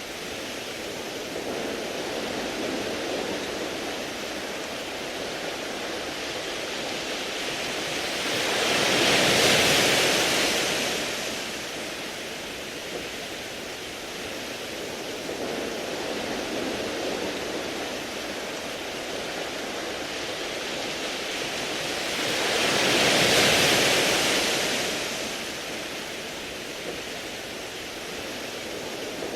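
Sea waves washing over a beach of round pebbles: a steady surf wash, with two bigger waves that swell into a loud hissing rush and fade away, about a third of the way in and again about three quarters of the way through.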